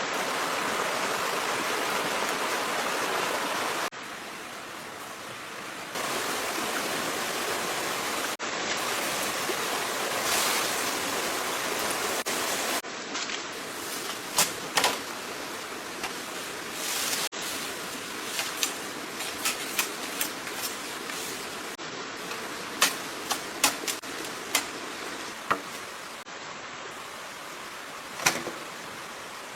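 Steady rush of a stream's running water, its level jumping at edit cuts every few seconds. Through the second half come scattered sharp clicks and taps.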